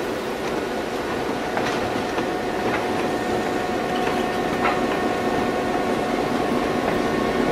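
Slow-moving train with a steam locomotive and a diesel crossing a trestle: a steady running noise with faint steady tones and a few scattered wheel clicks over rail joints.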